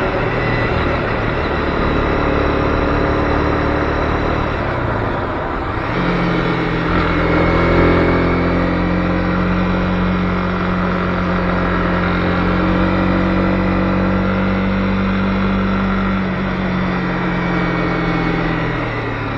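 Honda CB250R single-cylinder motorcycle engine running under way. The engine note dips and changes about a quarter of the way in, holds steady for several seconds, then shifts again and falls off near the end.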